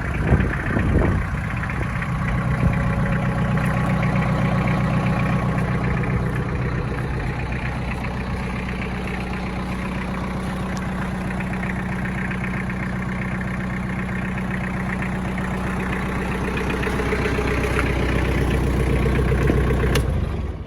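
Iseki TG5470 tractor's diesel engine running steadily at low revs, swelling slightly a few seconds in and again near the end, then cutting off suddenly.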